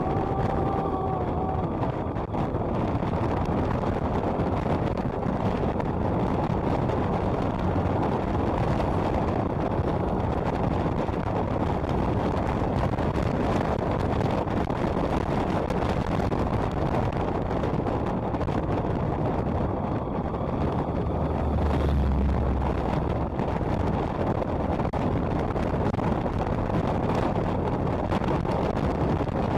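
Motorcycle riding at speed: a steady rush of wind over the microphone mixed with engine and road noise. A deeper rumble swells briefly about two-thirds of the way through.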